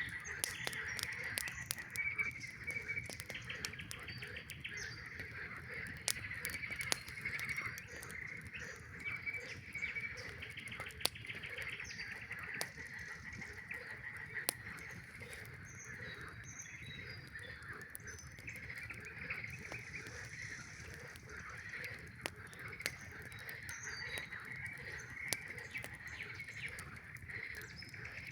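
A chorus of many frogs calling together without a break, overlapping trilled calls, with sharp pops and snaps of a crackling campfire scattered through it.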